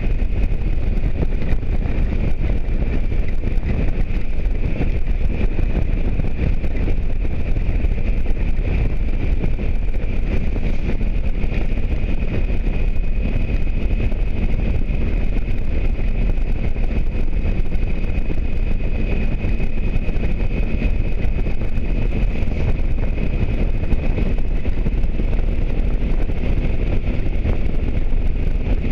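Motorcycle cruising at a steady speed, its engine running under a constant rush of wind on the microphone, with a thin steady high whine.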